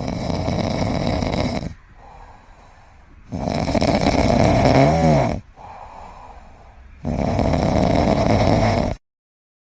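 A pet snoring loudly, with three long rasping snores about three and a half seconds apart and quieter breaths between them. The sound cuts off abruptly near the end.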